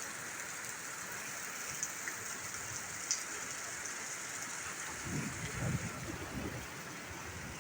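Steady rain falling, an even hiss with a few sharper drop hits. A low rumble comes in about five seconds in and fades after a second or so.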